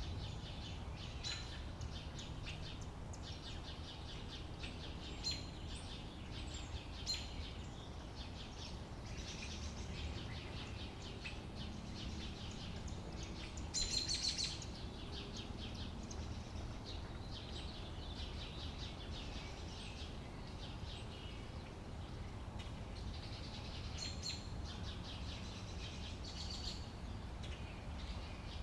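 Small birds chirping and singing again and again, with a louder burst of song about halfway through, over a steady low background rumble.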